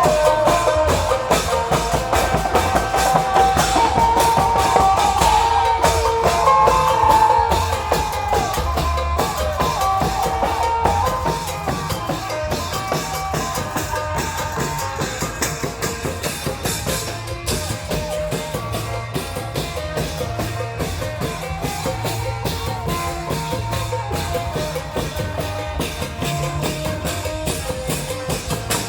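Isan klong yao long-drum troupe playing: steady drumming with a wavering melodic line over it, louder for the first eight seconds or so.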